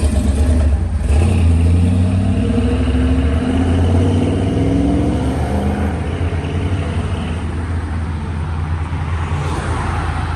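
Classic car's engine rumbling as it pulls away, its pitch rising over a few seconds as it accelerates, then settling to a lower, steadier sound.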